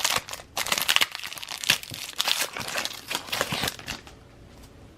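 Trading-card pack wrapper being torn open and crinkled by hand: a dense, crackly rustle that dies down about four seconds in.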